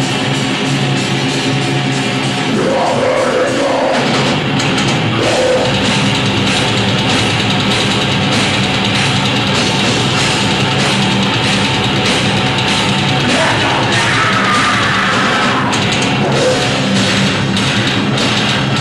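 Live band playing heavy rock music at full volume, dense and continuous.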